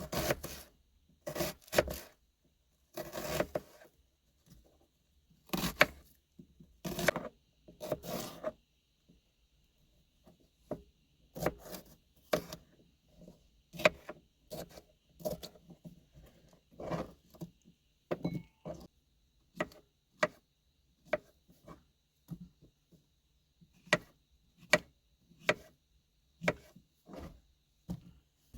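Kitchen knife chopping vegetables on a cutting board: irregular single knocks every half second to second, with a few longer scraping strokes in the first few seconds.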